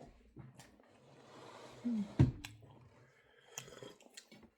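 Quiet sounds of people eating: chewing with small clicks of cutlery and dishes, and one sharper click about two seconds in.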